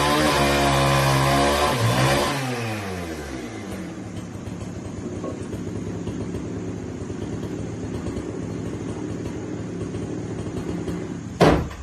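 Small engine running fast, slowing down with a falling pitch a little over two seconds in, then running steadily at lower speed; a sharp knock near the end.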